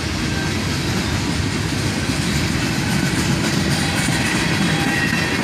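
Freight cars of a long manifest train rolling past, a steady rumble of wheels on rail with faint high squeals from the wheels.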